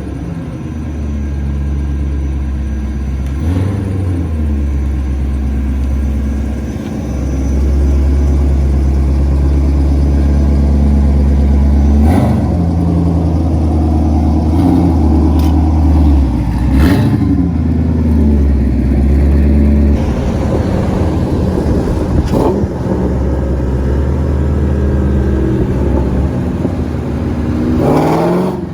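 Car engine driving under load, its pitch rising and dropping back several times as it accelerates through gear changes, getting louder about seven seconds in.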